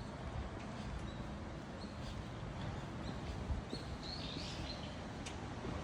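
Birds chirping faintly in short high calls, several together about four seconds in, over a steady low rumble of outdoor background noise.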